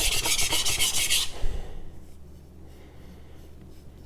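Steel knife blade scraped in fast back-and-forth strokes across a coarse 400-grit whetstone, freehand, setting the apex on the first stone. The strokes stop about a second in and it goes quiet.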